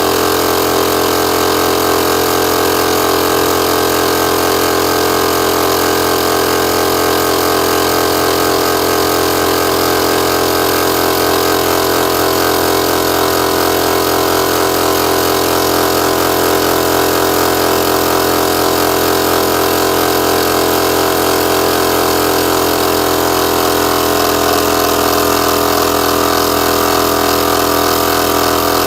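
MAX AK-HL1230EⅡ air compressor running: a loud, steady motor-and-pump hum whose tone shifts slightly about 24 seconds in.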